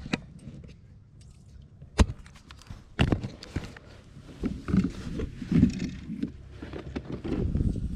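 Knocks and dull thumps on a kayak: a sharp knock about two seconds in, another a second later, then a run of low thumps and knocks.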